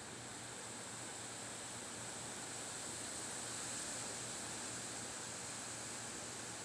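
Wind blowing in a steady hiss, swelling gently in a gust around the middle and easing off again.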